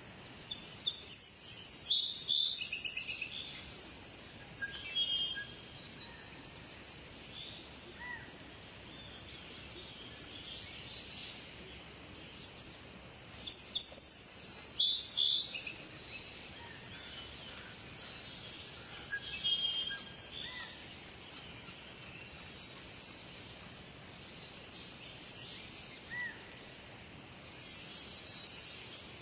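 Several birds singing and chirping over a steady hiss of outdoor background noise, in bursts of high trilled phrases, busiest near the start, midway through and near the end.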